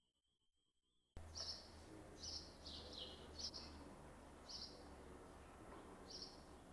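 Near silence, then about a second in the sound cuts in suddenly: a steady low hum under hiss, with a bird chirping about six times in short high calls.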